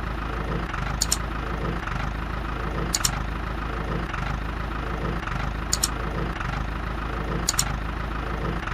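Small electric toy motor of a homemade model tractor chaff cutter running steadily, with a sharp double click four times.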